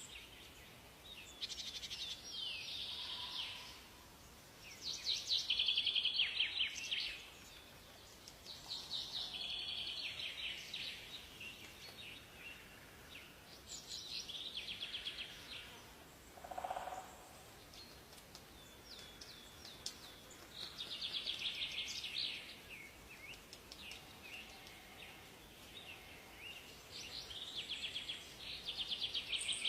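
A songbird singing, one fast, trilled phrase of a second or two repeated every three to four seconds, with a short lower call about two-thirds of the way through.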